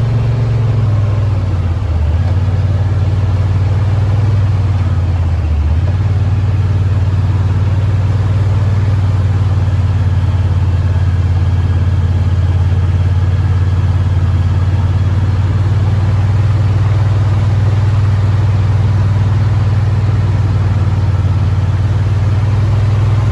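Side-by-side UTV engine running steadily at low speed, a loud low hum that briefly drops in pitch about two seconds and again about six seconds in.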